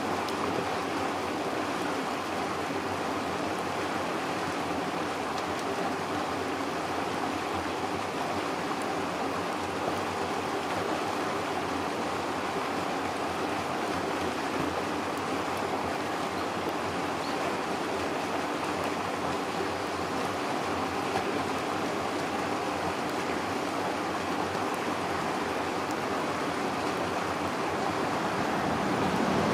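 River water flowing with a steady, even rush, growing a little louder near the end.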